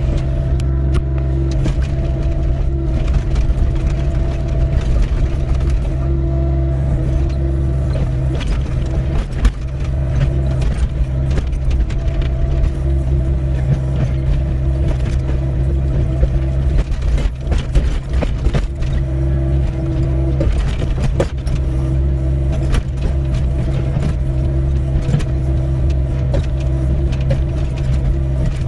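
Doosan 55W wheeled excavator's diesel engine running steadily under digging load, with a higher hydraulic whine that comes and goes. Irregular knocks and scrapes run through it as the bucket works through stony ground.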